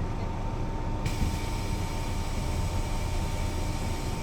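Mercedes-Benz O 405 NÜ bus's diesel engine running, heard on board, with a low rumble and a faint steady high tone. About a second in, a steady hiss sets in suddenly.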